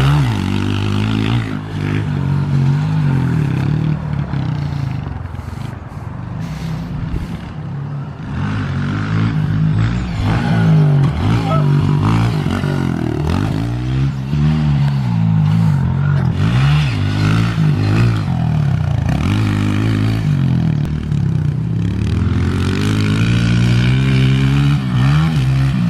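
Honda four-stroke single-cylinder pit bike engine being ridden hard, the throttle opened and shut again and again so the engine note repeatedly climbs and drops every couple of seconds.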